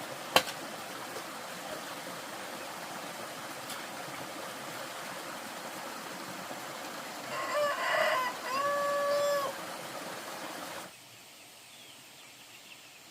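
A rooster crows once about seven seconds in, ending on a long held note. Under it runs a steady hiss that drops away near the end, and a sharp knock sounds just after the start.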